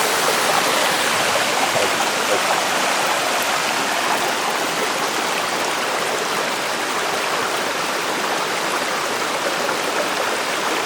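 Water of a waterfall pouring down over rocks: a steady, even rushing.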